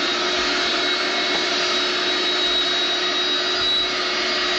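Vacuum cleaner running steadily with a constant high-pitched whine over its motor hum.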